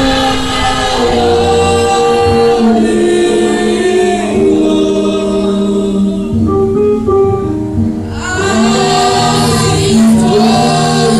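A choir singing a gospel song in long held notes, several voices together.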